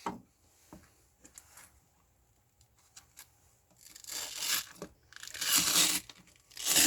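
Abrasive paper being changed on a knife-grinding machine: a few small handling clicks, then three rasping bursts of sheet abrasive being peeled off and torn in the second half. The grinder motor is not running.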